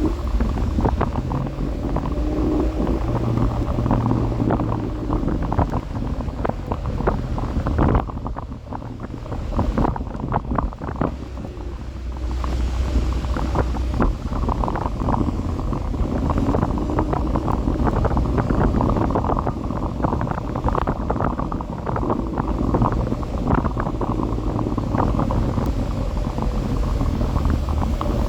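Wind buffeting the microphone during a ride on an electric scooter, over a steady rumble with many small knocks and rattles. It eases briefly about a third of the way through.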